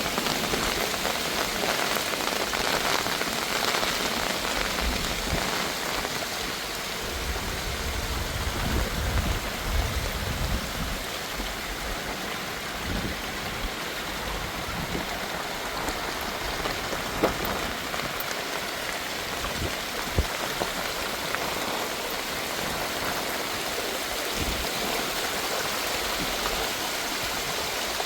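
Heavy rain falling steadily, with a few sharp drip taps and a low rumble lasting a few seconds, about eight seconds in.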